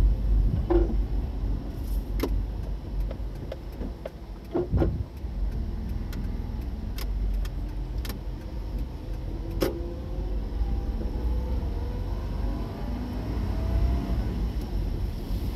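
A car running, with a steady low rumble and scattered short clicks and knocks. A faint engine note rises slowly from about ten seconds in, as if picking up speed.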